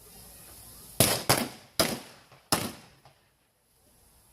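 Four gunshots from blank-firing guns in quick succession, starting about a second in, each crack trailing off in a short echo.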